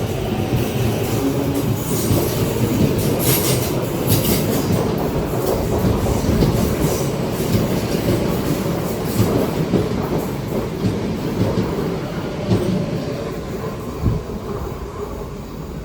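An MTR East Rail Line electric train pulling out of a station and running along the track, a steady rumble with wheel clicks over rail joints. It slowly fades near the end.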